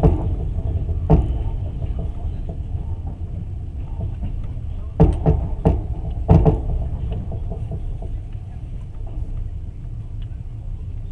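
Passenger train running, heard from inside the carriage: a steady low rumble with sharp clacks of the wheels over rail joints, one near the start, one about a second in, and a cluster of three around five to six and a half seconds in.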